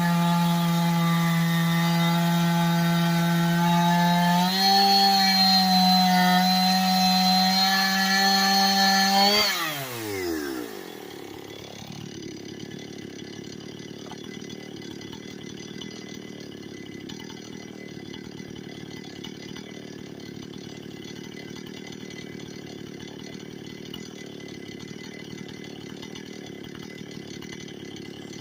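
Chainsaw engine running steadily at high revs, its pitch stepping up slightly about four seconds in; about nine and a half seconds in it shuts off and the pitch falls away quickly as it winds down. After that only a fainter steady hum remains.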